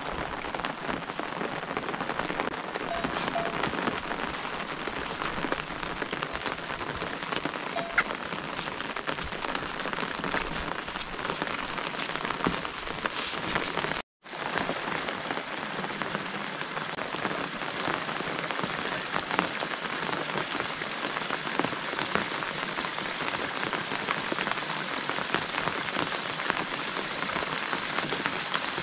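Steady rain falling, a dense, even patter of drops, cutting out for a moment about halfway through.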